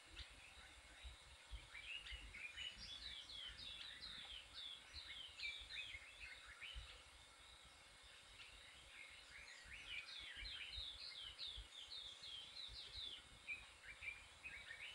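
Faint chorus of small birds calling: many quick downward-sweeping chirps overlapping in two spells, over an irregular low rumble.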